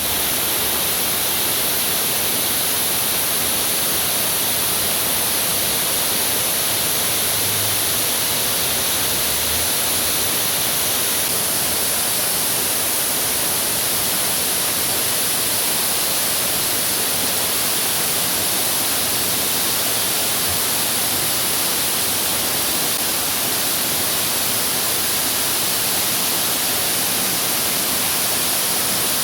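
Waterfall: a steady, dense hiss of falling water, heavy in the high end and unchanging throughout.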